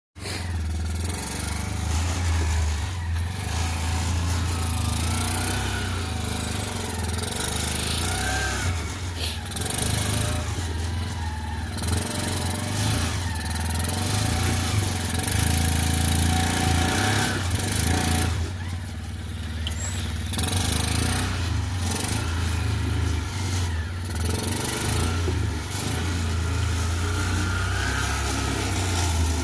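Mini rock crawler's small engine running, its revs rising and falling with a dip about two-thirds of the way through.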